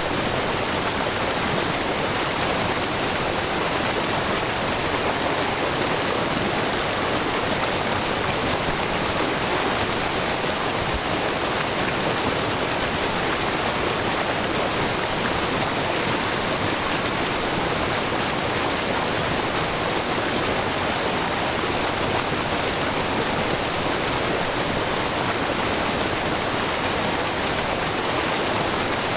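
A low, wide waterfall, with many thin streams of spring water falling about 3 m over a rock face, splashing in a steady, even rush.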